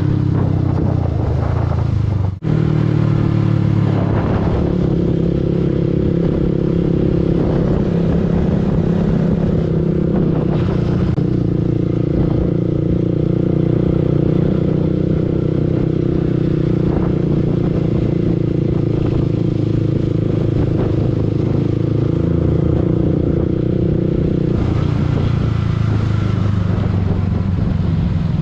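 Yamaha R15 V2's 150 cc single-cylinder four-stroke engine running steadily under way. The sound drops out for a split second about two seconds in, and the engine note changes near the end.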